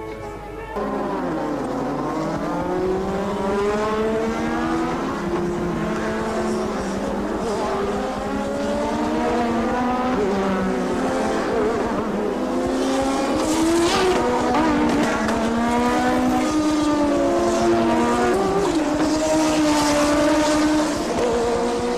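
Several 1986 Formula One cars' 1.5-litre turbocharged engines revving together. They start loud about a second in, and many pitches climb and fall as the cars accelerate and shift.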